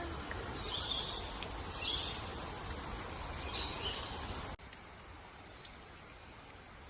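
Rainforest insects keeping up a steady high-pitched drone, with a few short chirps over it in the first few seconds. About four and a half seconds in the sound drops abruptly, and the insect drone carries on more quietly.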